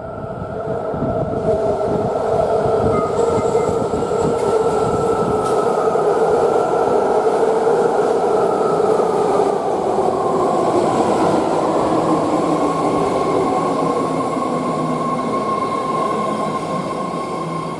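BART train running through an underground station, loud, with a steady rumble and high whining tones from its wheels and motors. The sound swells over the first couple of seconds, and about halfway through the whine dips lower in pitch as the train slows.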